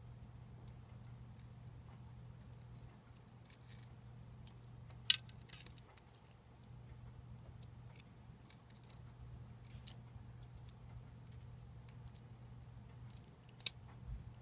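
Small metallic clicks and clinks of replica lightsaber hilt parts and tools being handled during disassembly, with two sharper clicks, one about five seconds in and one near the end. A steady low hum runs underneath.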